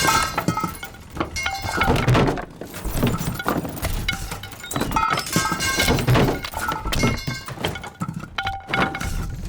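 Repeated thuds and knocks over background music.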